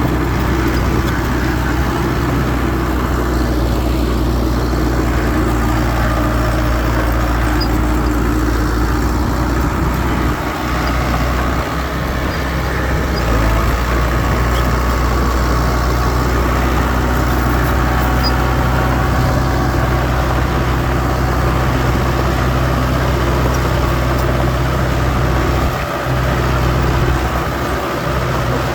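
Heavy earthmoving machinery's diesel engine running steadily with a deep, even hum and a few brief dips.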